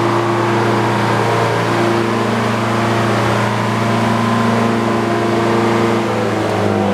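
An old Frick sawmill running with a loud, steady drone of several tones; the pitch dips slightly near the end.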